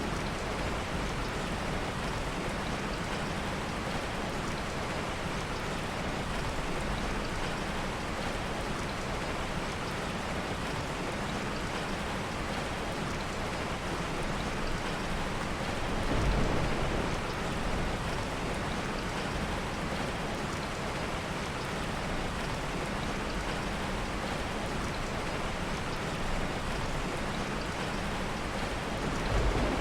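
Heavy rain falling steadily, with a short low rumble of soft thunder about halfway through and another near the end.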